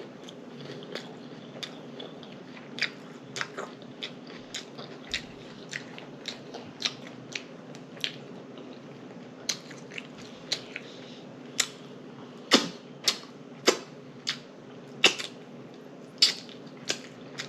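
Close-miked chewing of a soft-shell chicken burrito, with irregular wet mouth clicks and lip smacks that grow louder and more frequent in the second half.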